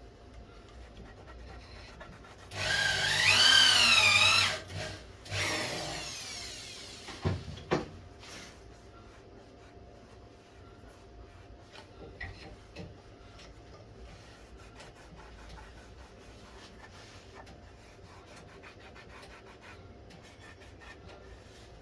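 A tool working wood: a loud scraping burst of about two seconds with a squeal that wavers up and down in pitch, then a second burst that fades away. A couple of sharp knocks follow, then quiet handling.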